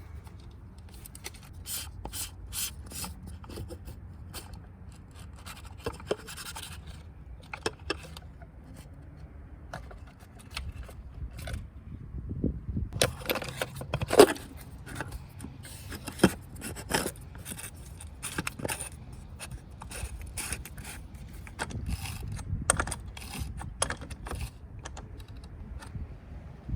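Hand work on parts and tools: scattered clicks, knocks and scraping, busiest about halfway through, over a faint low hum.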